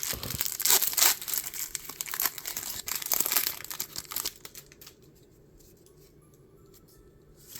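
Pokémon card pack packaging crinkling and tearing as a pack is opened by hand, for about four and a half seconds, then only faint handling sounds with a short click near the end.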